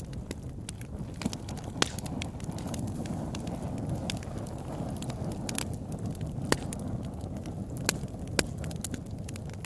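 Wood campfire crackling: irregular sharp pops and snaps over a steady low rush of burning flames, with the loudest pops about two seconds in, midway, and twice near the end.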